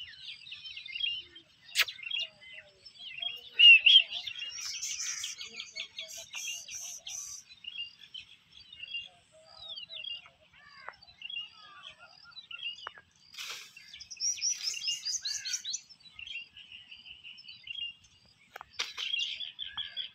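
Small birds chirping and calling continuously, many short overlapping chirps, with a run of quick falling whistles about two-thirds of the way through.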